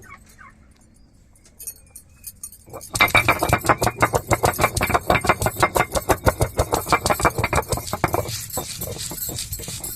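Stone roller worked back and forth on a flat ammi grinding stone, grinding coconut, dried chillies, garlic and cumin: a few light clicks, then from about three seconds in rapid, rhythmic stone-on-stone knocking and scraping that eases a little near the end.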